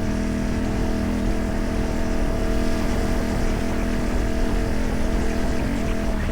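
CFMoto 450MT's parallel-twin engine running through a modified exhaust, held at steady revs while the bike is ridden.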